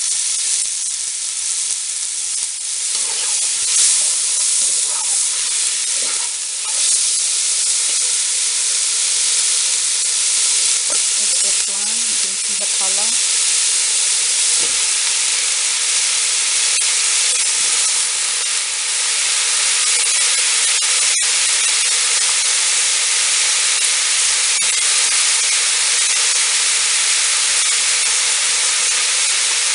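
Sliced eggplant sizzling in hot oil and spices in a large steel pot, stirred with a steel ladle. The frying hiss is loud and steady throughout.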